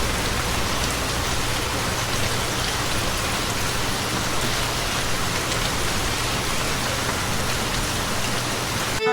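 Steady, even hiss like heavy rain, with a low hum underneath; it cuts off suddenly near the end.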